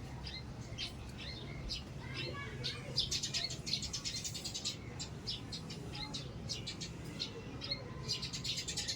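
Small birds chirping: many short, high chirps in quick runs, busiest about three seconds in and again near the end.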